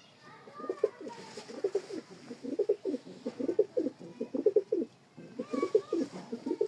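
Domestic pigeons cooing: quick runs of low, pulsing coos, one after another, with a short break about five seconds in.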